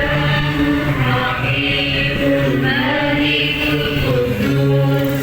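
Muslim congregation chanting devotional verses together, long held and gliding sung notes.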